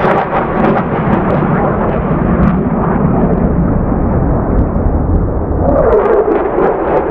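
Loud, deep rumbling roar of low-flying military fighter jets passing overhead through the glen, the roar swelling with a shift in pitch near the end.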